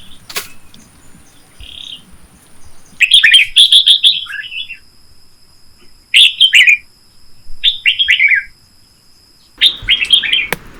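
A bird singing loud, rapid chirping phrases, four bursts a few seconds apart, over a steady high insect-like whine.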